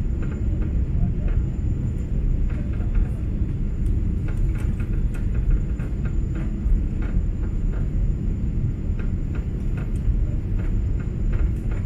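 Steady low rumble inside the cabin of a Boeing 777-200 in flight: engine and airflow noise, with faint scattered clicks and rattles.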